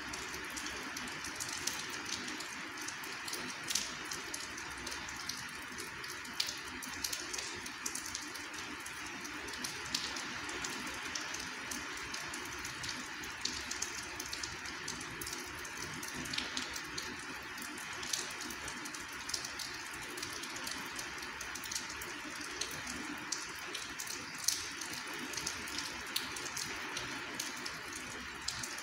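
Rain falling steadily as an even hiss, with many scattered drops ticking close by.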